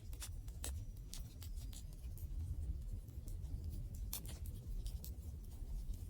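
Wood fire crackling: irregular sharp pops and snaps over a low steady rumble, with a louder pop about four seconds in.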